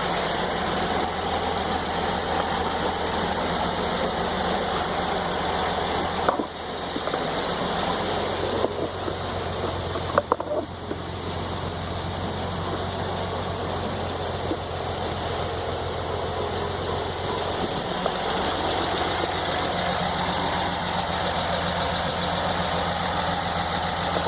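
Engine powering a circular sawmill runs steadily at speed, spinning the 49-inch saw blade, with a couple of brief clicks along the way.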